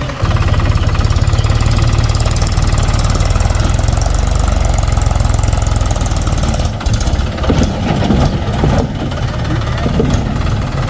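Heavy diesel engine running: it comes up sharply in level just after the start and then runs hard and steady, with a low pulsing rumble. From about seven to nine seconds in it turns uneven, with a few sharp knocks and rattles.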